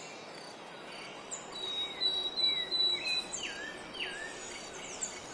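Rainforest ambience: birds calling with short whistled notes that swoop down and up, one after another about once a second, over a steady hiss of insects. A thin, steady high tone runs through the middle of it for a couple of seconds.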